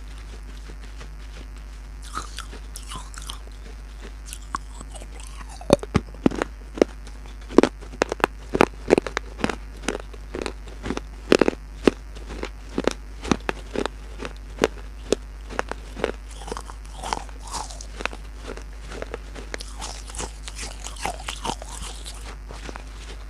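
Close-miked biting and chewing of pieces of baked clay pot. Quiet chewing at first, then a run of rapid sharp crunches from about six seconds in until about sixteen seconds, then quieter chewing.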